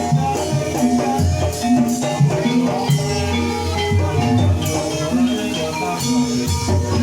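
Gamelan music accompanying an ebeg horse dance: a repeating melody on pitched percussion over hand-drum beats, with a steady high jingling rattle.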